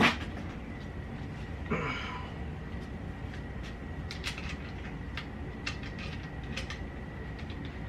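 Small clicks, taps and a creak of parts being handled while a headset top cap is fitted onto a bike fork's steerer tube, starting with a sharp knock. A steady faint hum sits underneath.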